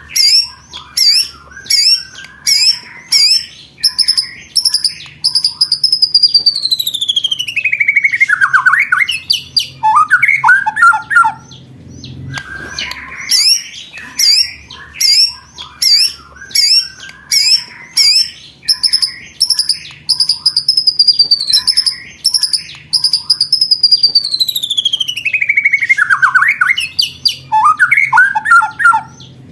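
Recorded songbird calls played as a lure and tutor track for contest birds: a run of rapid, sharp high chips, then a long whistle that falls steeply in pitch, then a short rattle. The whole phrase repeats about halfway through.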